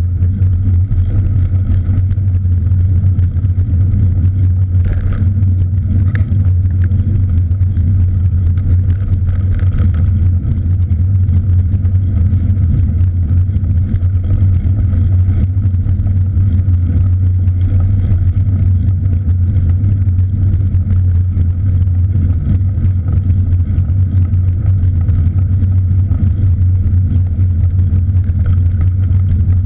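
Steady low rumble of wind and road noise picked up while riding a cross bike, unbroken throughout, with a few faint brief higher sounds about five to ten seconds in.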